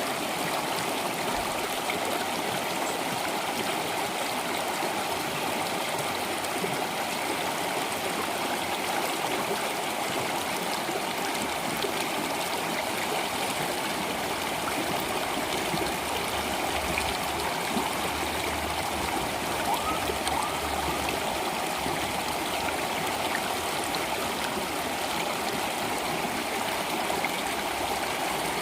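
Flowing stream water, an even, continuous rush.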